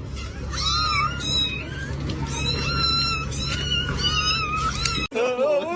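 A cat meowing over and over in a series of drawn-out, high calls. About five seconds in, it cuts off abruptly and a lower, wavering voice follows.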